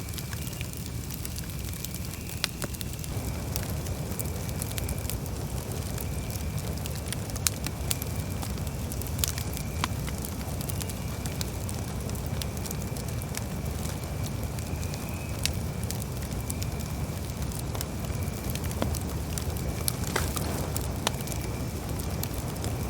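Campfire burning: a steady low rumble of the flames with scattered sharp crackles and pops from the burning wood. A faint steady high tone runs underneath.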